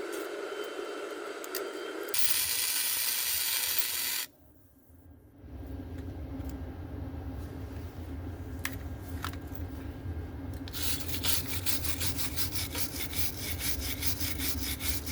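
Metalworking on a motorcycle frame. About two seconds in comes a couple of seconds of loud hissing, then a sudden drop to near quiet. After that a steady low hum runs, with fast, even rasping strokes setting in for the last few seconds.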